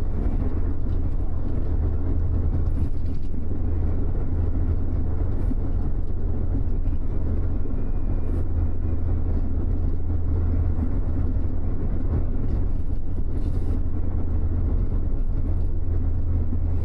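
Cabin of a double-decker express bus under way: a steady low engine and road drone, with faint light clicks or rattles now and then.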